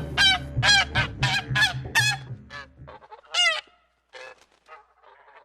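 Honking bird calls in a quick series, about three a second, over background music that stops about three seconds in. A few fainter calls follow before the sound ends.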